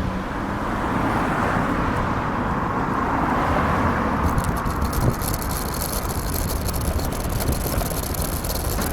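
Road traffic going past close by, with a passing car swelling in the first few seconds; from about four seconds in, a dense rattle joins it.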